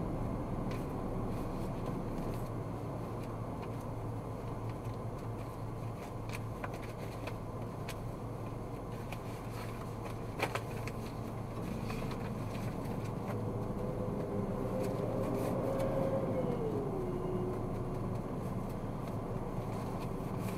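Car driving in city traffic, heard inside the cabin: steady engine and tyre rumble. A single click comes about halfway. A faint whine climbs slightly and then drops in pitch about two-thirds of the way through.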